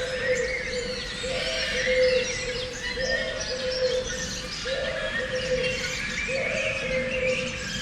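A chorus of songbirds chirping and singing over one another, with a lower held call repeating about every second and a half.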